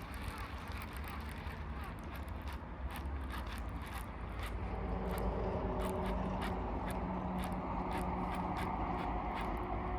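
Baitcasting fishing reel being cranked to retrieve a big-bait lure: a mechanical whir with rapid clicks and scraping from the reel, growing louder about halfway through, over a low rumble of wind on the microphone.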